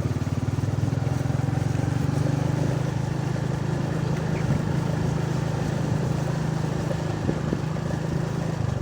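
Vehicle engine running at a steady pace while travelling along a road.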